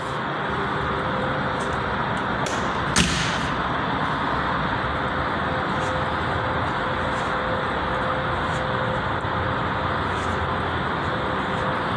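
Steady rushing background noise with a faint steady hum, broken once about three seconds in by a single sharp knock.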